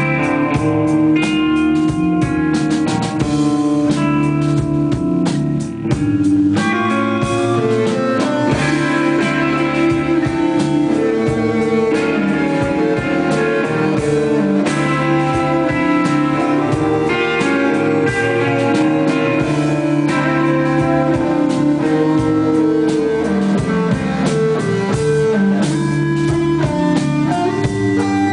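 Live band playing: electric guitar over bass and drum kit, a loud, steady rock groove with a brief drop just before six seconds in.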